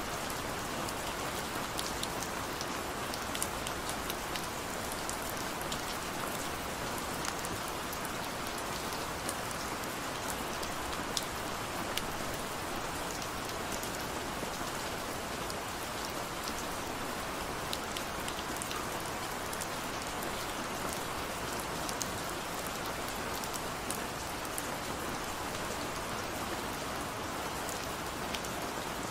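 Steady rainfall: an even hiss, with many small sharp ticks of individual drops striking.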